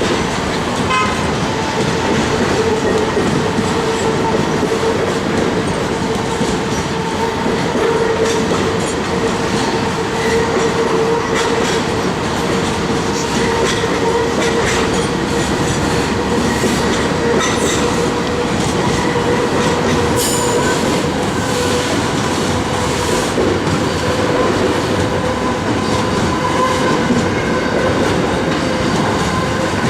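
Train running past, wheels clattering over the rail joints with a steady loud rumble and a steady humming tone throughout.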